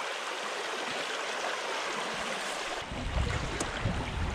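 River current rushing through shallow rapids, a steady hiss of moving water. About three seconds in, a low rumble joins it.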